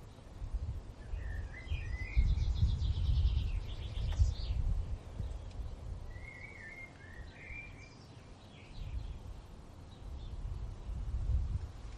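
Wild birds singing: two phrases of short chirps and quick trills, one in the first seconds and another about halfway through, over a low rumble of wind that rises and falls in gusts.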